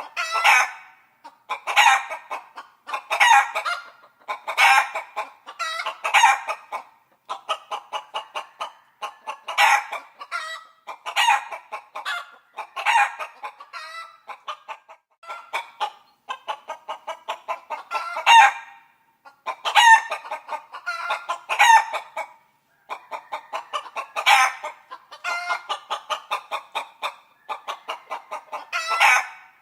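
Chickens clucking in quick runs of short notes, broken every second or two by longer, louder calls.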